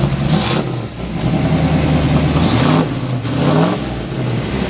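Corvette 350 small-block V8 with a roller cam and custom exhaust, just started and running, revved briefly near the start and again for about a second and a half in the middle before dropping back to idle.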